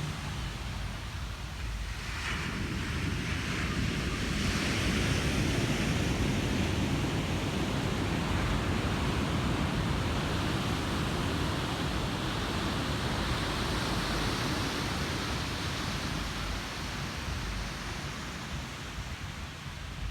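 Ocean surf: a wave breaks about two seconds in, and its rushing wash holds, then slowly eases off near the end.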